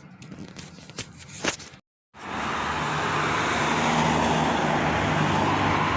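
Quiet with a few faint clicks, then after a short cut about two seconds in, a steady loud motor hum with a constant low pitch and a rushing noise over it.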